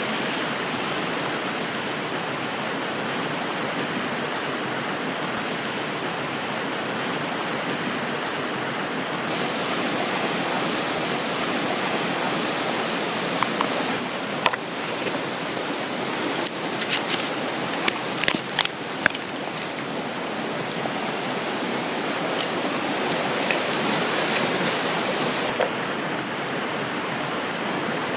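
Steady rush of flowing river water. In the middle there is a scattered run of short, sharp clicks and pops.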